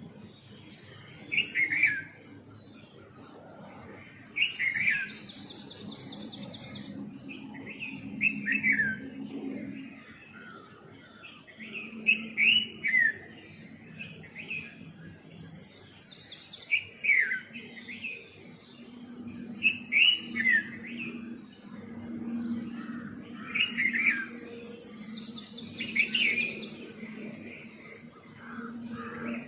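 Small birds chirping: short falling chirps every second or so, with a rapid, evenly pulsed higher trill a few times that each lasts one to three seconds.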